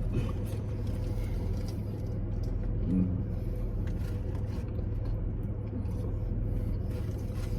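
Steady low rumble of a car engine running, heard from inside the car.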